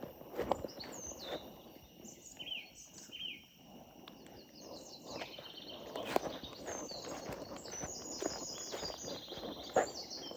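Forest birds chirping and trilling repeatedly over a steady outdoor background, with irregular crunching and a few sharp knocks.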